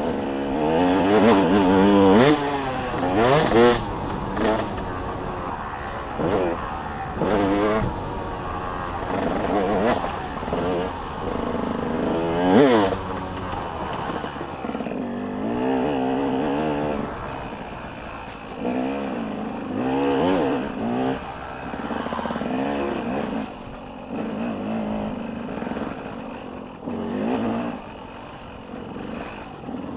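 Several motocross bikes revving hard and backing off as they ride the track, their engine notes rising and falling and overlapping. The loudest is a bike swelling up close about twelve seconds in.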